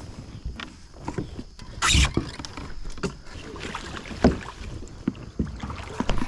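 Kayak on the water: paddle or gear knocking against the plastic hull several times, with a splashing hiss about two seconds in and the sharpest knock a little after four seconds.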